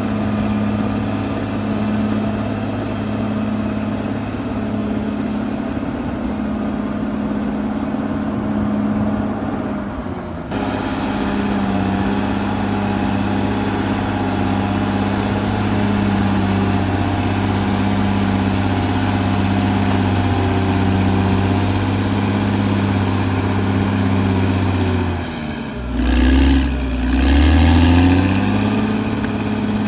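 Caterpillar D6R XL bulldozer's diesel engine running steadily. Near the end the engine note dips and climbs back up, briefly louder.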